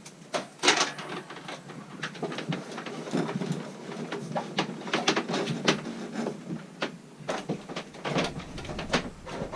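Irregular clicks, knocks and scraping as a cable is pushed and pulled through the boat's interior panels and cable runs, with a sharp knock about a second in.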